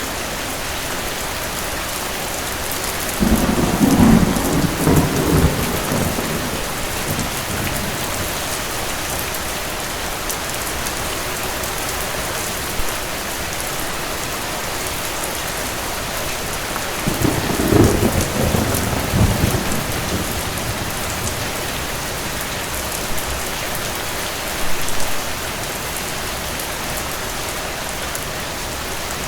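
Steady rain with rolls of thunder: a low rumble a few seconds in, another around the middle, and a shorter one near the end.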